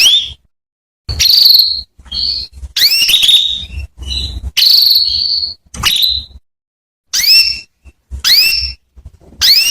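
Female canary calling: a string of about ten short, high calls, most sweeping up in pitch and then holding, one roughly every second.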